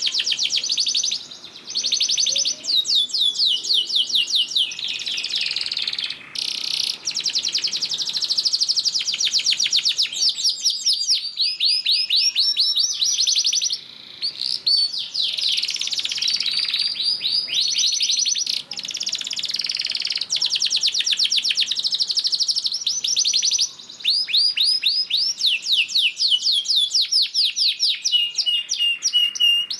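Domestic canary singing a long, loud song of rapid high-pitched trills and rolling runs, with only brief pauses between phrases.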